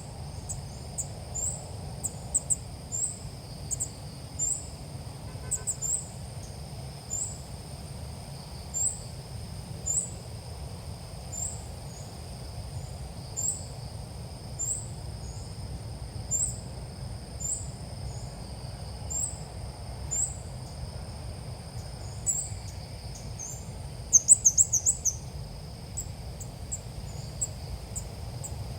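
The call of the small bird known in Vietnamese as ốc mít, used as a lure call for trapping: a short, high chirp repeated about once a second, with a louder quick run of chirps about 24 seconds in. Under it runs a steady high-pitched drone and a low rumble.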